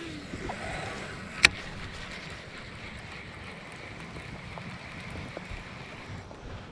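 Quiet open-air ambience on the water with a steady low hiss, broken by one sharp click about a second and a half in.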